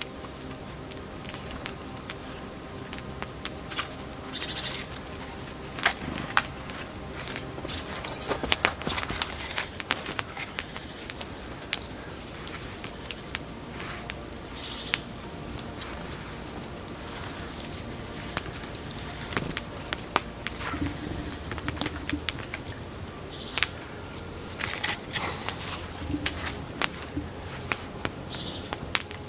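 A songbird repeating a short phrase of quick, evenly spaced notes, about every three to five seconds, with scattered clicks and knocks underneath.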